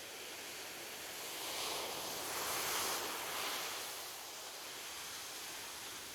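Ocean surf on a beach: a steady hiss of water, with one wave rising about a second and a half in and fading away by about four seconds.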